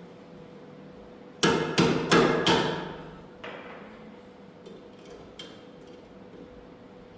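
Four quick, sharp knocks in a row, each ringing briefly, like hammer blows, followed by a few lighter clicks and taps. A faint steady hum runs underneath.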